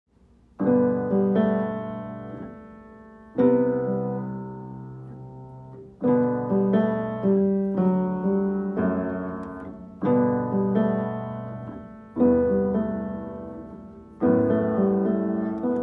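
Solo piano music: chords struck roughly every two seconds, each ringing out and fading before the next.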